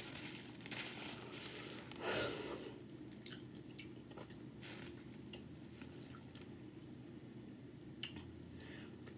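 A person chewing a mouthful of taco boat with her mouth closed: soft, scattered mouth clicks, a louder mouth sound about two seconds in and a sharp click near the end.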